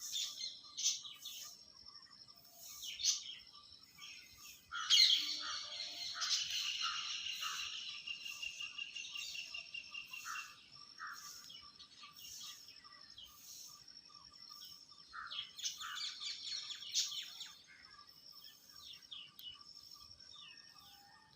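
Birds chirping and calling in short, high chirps, with a loud run of calls from about five to ten seconds in and another burst around sixteen seconds in.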